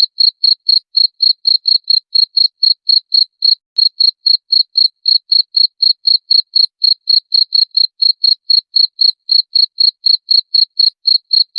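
Cricket chirping in a steady rhythm: short, high chirps on one pitch, about four a second, with a brief gap about three and a half seconds in.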